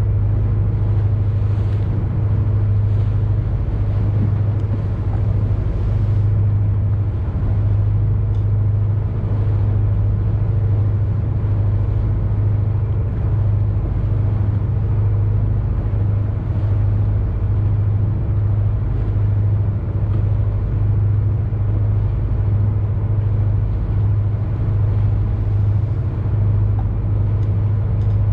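A boat's engine running steadily: a deep, even drone that does not change.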